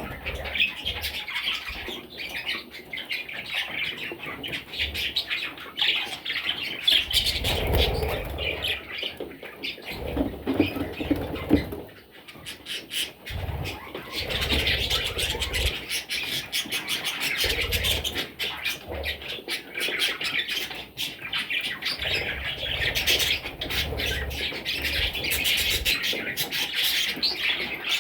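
A group of budgerigars chattering and squawking without pause, many short scratchy calls overlapping, with occasional low thumps.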